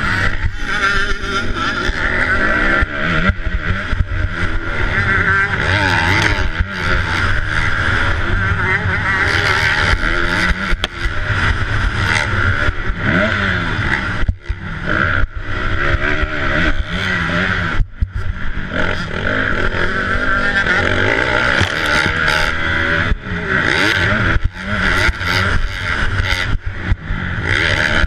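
A 250cc four-stroke motocross bike's engine revving hard, its pitch rising and falling over and over as the rider shifts and works the throttle, with a few brief drops where the throttle is cut. It is heard from a helmet-mounted camera, with wind rushing over it.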